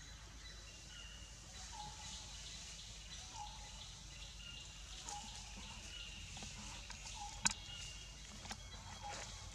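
Woodland ambience: a bird repeating short chirps every second or so, with one sharp click about three-quarters of the way in.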